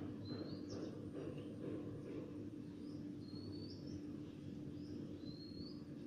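A bird calling with short rising chirps every second or two, over a steady low hum.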